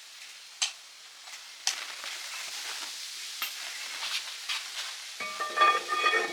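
Steel parts and tools clinking and ringing in a workshop, with a few sharp clicks over a steady hiss, then a run of ringing metal clinks about five seconds in.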